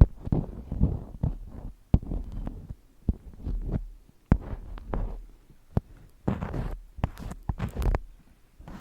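Irregular close-up taps and soft thuds with brief rustles, some sharp and clicky, others dull, with short pauses between them: ASMR handling sounds.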